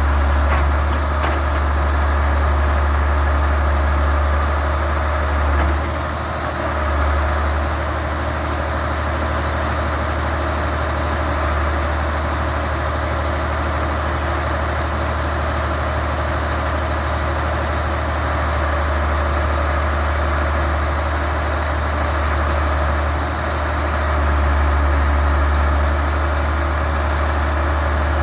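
Ford L8000 truck's 8.3-litre Cummins diesel engine running steadily at idle, with a brief dip about six seconds in and another near the twenty-three-second mark.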